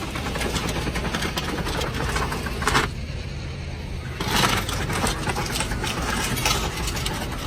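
An engine idling steadily, with a couple of knocks and handling noises about three and four and a half seconds in.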